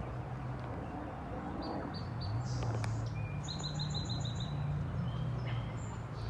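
Small birds chirping in short high notes, with a quick run of about seven notes near the middle, over a steady low hum.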